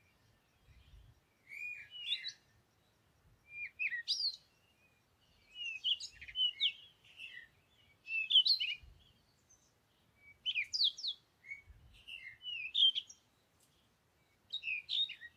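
A songbird singing in short phrases of quick chirps and whistled glides, one phrase about every two seconds with quiet gaps between.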